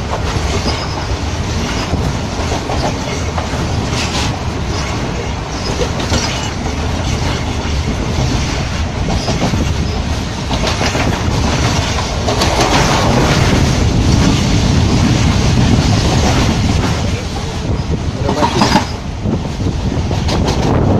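Passenger train running along the track, heard from inside a carriage: a steady rumble and rattle, with a few sharp clacks of the wheels over rail joints.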